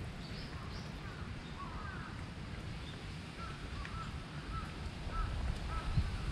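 Birds calling, a run of short chirps repeating about twice a second in the second half, over a low steady outdoor rumble.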